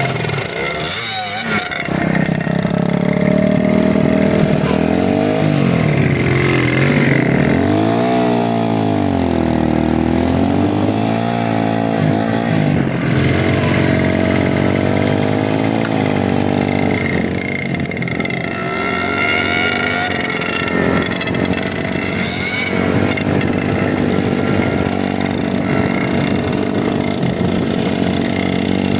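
Motorcycle engine running while riding, its pitch rising and falling several times with the throttle in the first half and then holding steadier, over a steady rush of noise.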